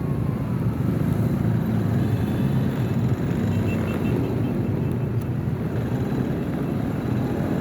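Motorcycle running along the road, heard from a camera on the bike as a steady low rumble of engine and wind noise.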